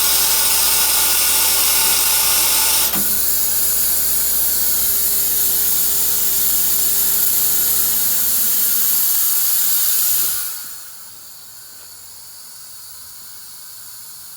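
Sh-514 tyre changing machine running: a loud steady hiss over a low hum, with a sharp click about three seconds in. The hum stops near eight seconds and the hiss dies down at about ten seconds, leaving a faint hiss.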